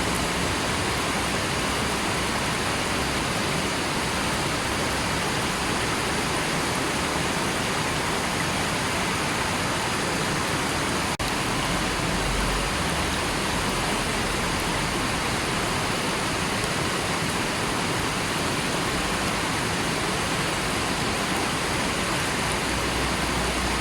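River water rushing steadily, an even, unbroken hiss, with one momentary break about eleven seconds in.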